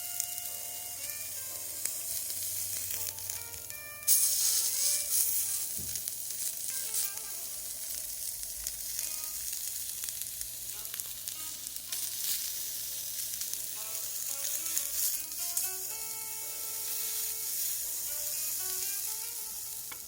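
Food sizzling on a small thick iron griddle, the sizzle jumping louder about four seconds in. A light background melody plays throughout.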